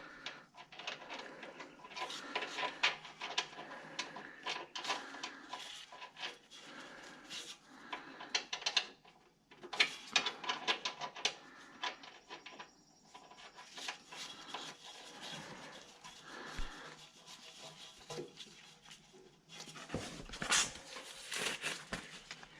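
Irregular metal clicks and scraping of hand work as the oil drain plug on a zero-turn mower's Kawasaki engine is fitted back in.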